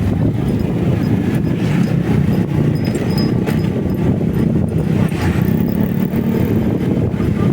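Motorcycle running steadily on the move, a constant low rumble without pauses.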